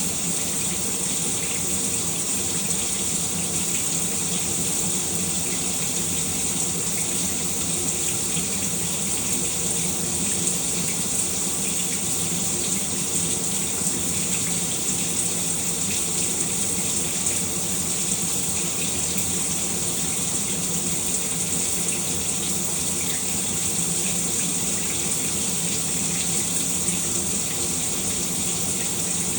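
Shower running steadily, water spraying and splashing without a break.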